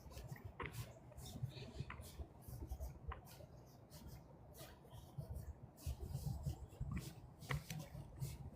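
Dry fallen leaves crackling and rustling in many short, irregular crunches, over a low steady rumble.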